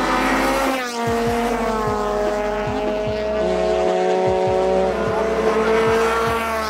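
Honda Civic race cars' four-cylinder engines revving hard as they pass in a group. One engine drops sharply in pitch about a second in, while the others hold high, steady revs that climb a little near the end.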